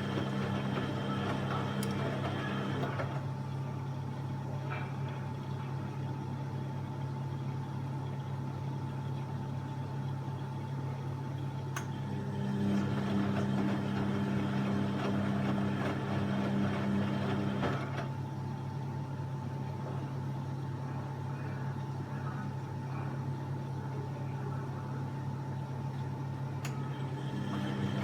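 Washing machine running a wash cycle: its motor turns the drum in spells of about five seconds with pauses of about ten seconds between, over a steady hum.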